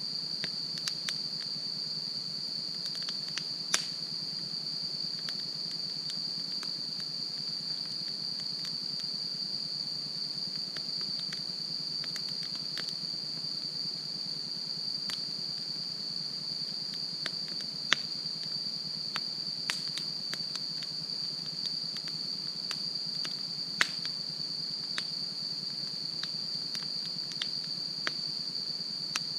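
Wood campfire crackling, with irregular sharp pops and snaps, the loudest about 4, 18 and 24 seconds in. Under it runs a steady high-pitched trill of crickets or other insects.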